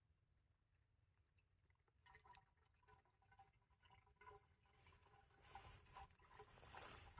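Near silence, with faint short chirps and light rustling starting about two seconds in; no engine is running.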